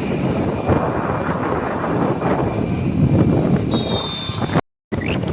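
Heavy wind buffeting the microphone over the rumble of a moving vehicle. Near the end a thin high whistle sounds, then the audio cuts out briefly.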